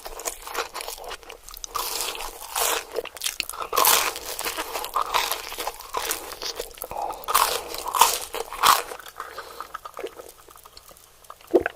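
Close-miked ASMR eating: a run of crisp bites and crunches into pizza and chicken nuggets. They thin out over the last few seconds, with one sharp snap near the end.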